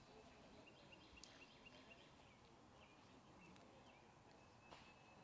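Near silence: faint outdoor ambience with small birds chirping faintly over and over.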